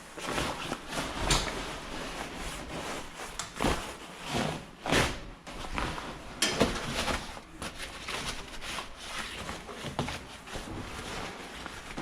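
A tarp cover rustling and scraping in irregular bursts as it is pulled and fitted over a generator or air compressor.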